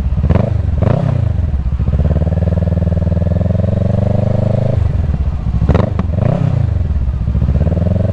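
Kawasaki Ninja 650 parallel-twin engine running at low revs, with two quick throttle blips that briefly raise and drop the pitch, one about a second in and one about six seconds in.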